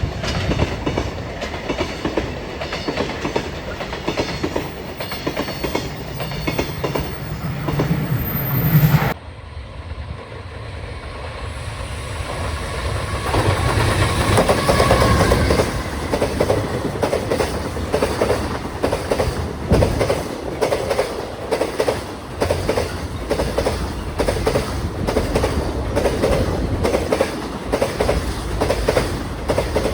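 Freight train wagons rolling past with a rhythmic clickety-clack of wheels over rail joints. The sound cuts off abruptly about nine seconds in, and another freight train then builds up and passes with the same steady clacking.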